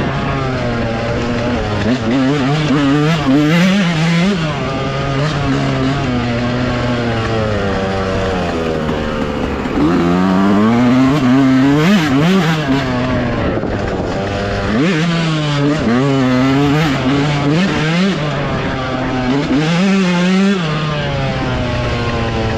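Dirt bike engine running under way, revving up and dropping back several times as the throttle is opened and closed, its pitch climbing and falling with each surge.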